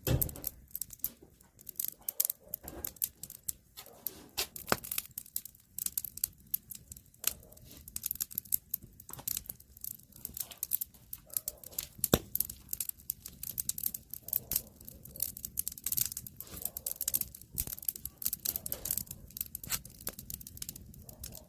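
Wood fire crackling, with irregular snaps and a few louder pops.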